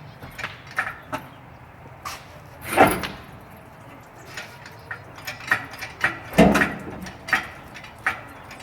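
Irregular metal clanks and knocks from the engine hoist, its chain and the engine being worked loose in the truck's engine bay, with two louder scraping clunks, about three seconds in and again about six and a half seconds in.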